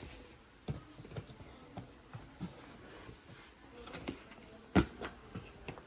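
Cardboard box and packaging being handled during an unboxing: scattered light knocks, taps and scrapes, with one sharper knock near the end.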